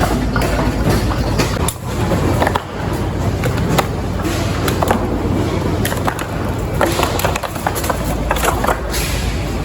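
Clatter and knocks of fish being unloaded and handled at the quayside, irregular hard impacts over a steady machinery rumble.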